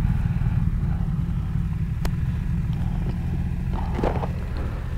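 Motorcycle engines idling at a standstill, a steady low rumble, with one sharp click about two seconds in.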